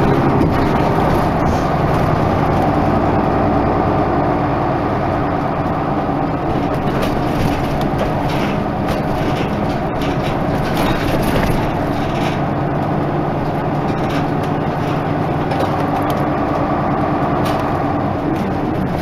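Isuzu Erga Mio bus's diesel engine running steadily while the bus is under way.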